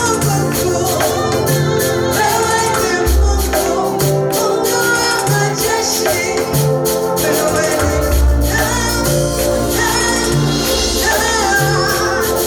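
Gospel praise music: voices singing a melody over bass and keyboard, with a tambourine or shaker keeping a steady beat.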